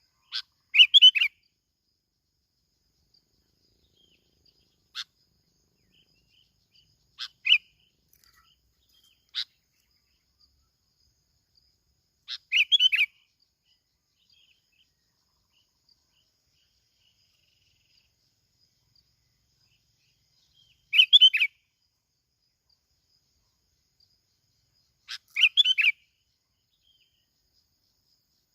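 Bulbul (bông lau) calling in short, bubbly chirping phrases of about half a second to a second. Seven phrases come at uneven intervals, with silent gaps of several seconds between them; the loudest are near the start, about 12 s in, about 21 s in and about 25 s in.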